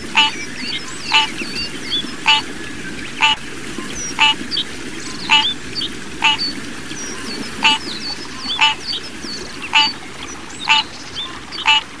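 Birds calling: a short call repeats evenly about once a second, with faint high chirps in between.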